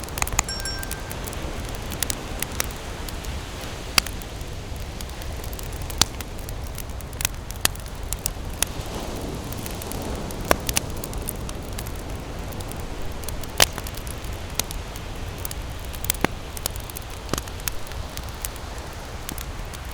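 Wood campfire burning and crackling, with irregular sharp pops and snaps over a steady low rumble.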